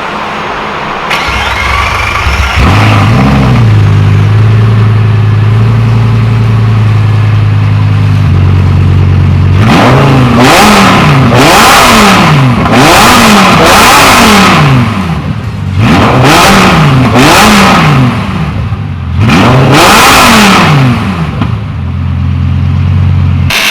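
Lamborghini Gallardo V10 engine idling steadily, then revved in a run of quick throttle blips from about ten seconds in, each rising and falling in pitch, before settling back to idle near the end.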